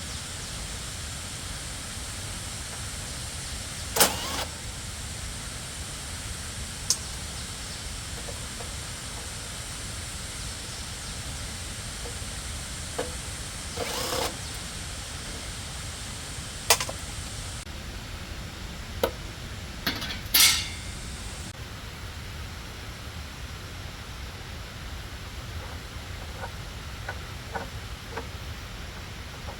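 Hand tools knocking and clinking on metal: about seven sharp, separate strikes spread out over a steady background hiss, then a few faint ticks near the end.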